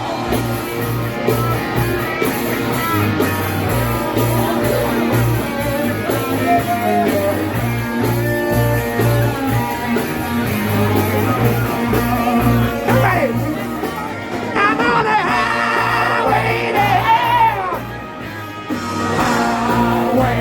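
Rock music with singing, guitar and a steady driving beat.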